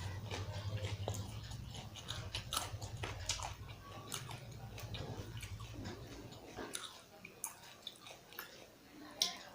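Close-up mouth sounds of eating with the hands: chewing, wet smacks and clicks of a mouthful of rice with dal and curry. A low hum lies under the first six seconds and then stops.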